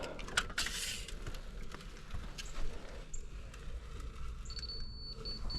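Scattered light knocks and scuffs over a steady low machine rumble. A high electronic beep sounds near the end, held for about a second and then breaking into short pulses.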